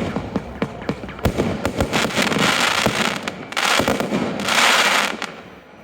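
Fireworks display: a run of sharp bangs and cracks, then a dense hissing crackle from about two seconds in, the loudest part, that dies away near the end.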